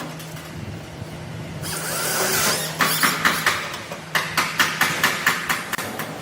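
Rapid hammer blows, about four or five a second, in two runs with a short break between them, starting a little before the middle of the stretch, over a steady low hum and some hiss.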